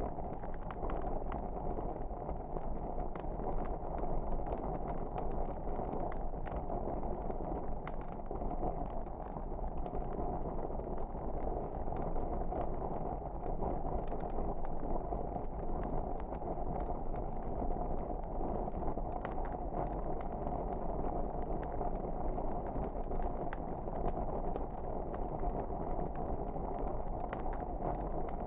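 Log fire burning in a fireplace: a steady low rush of flames with scattered sharp crackles and pops.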